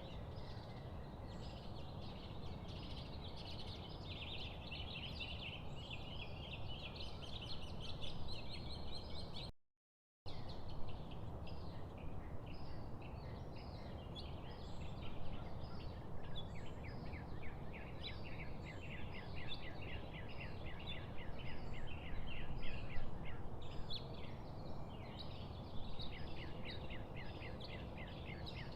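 Many birds chirping and calling in quick, repeated trills over a steady low background rumble, with a brief cut to silence about ten seconds in.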